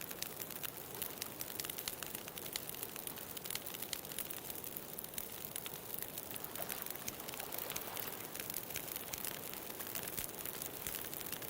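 Wood bonfire crackling, with many quick sharp snaps and pops over a steady rushing hiss.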